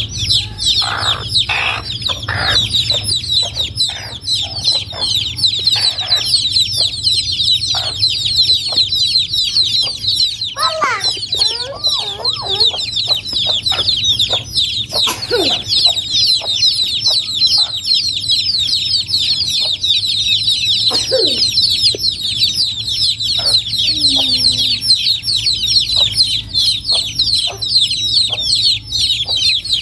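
A brood of chicks peeping continuously in a dense high-pitched chorus of short falling peeps, with a hen clucking at intervals among them.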